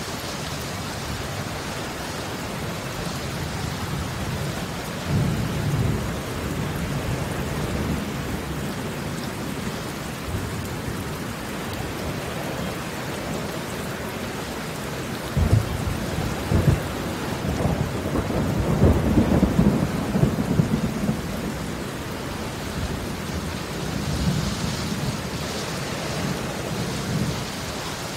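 Rain falling on wet concrete pavement: a steady hiss of drops splashing on the water-covered surface. Low rumbles swell and fade several times, strongest in the middle stretch.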